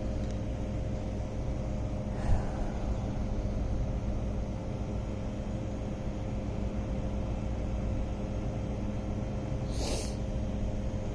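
Steady low mechanical hum of building ventilation or refrigeration, with a single knock about two seconds in and a brief rustle near the end.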